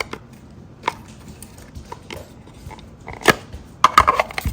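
Scattered clicks and knocks of a DeWalt 20V battery pack and its plastic adapter being handled, with a cluster of louder knocks over the last second and a half.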